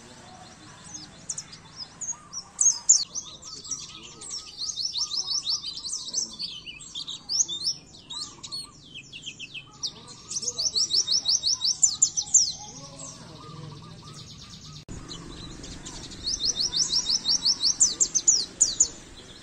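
White-eye (pleci) song: fast, high, chattering trills in three long bursts, about two, ten and sixteen seconds in, with softer warbling between them.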